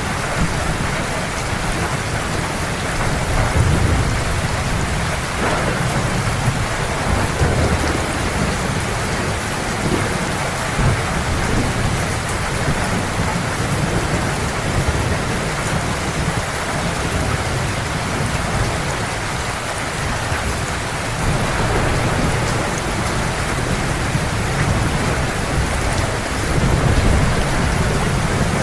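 Heavy steady rain with thunder rumbling low underneath, swelling a couple of times.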